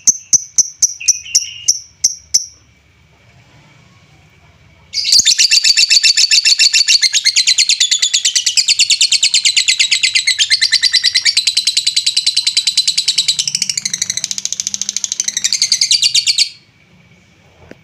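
Lovebird calling: a run of quick, sharp, high chirps for about two seconds, then after a short pause a long, loud, very rapid chattering trill of about eleven seconds that cuts off suddenly. It is a bait call meant to rouse lovebirds that are not very active.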